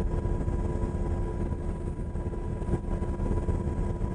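UH-60 Black Hawk helicopter in flight, heard from inside the cabin: a steady low drone with several steady whining tones over it.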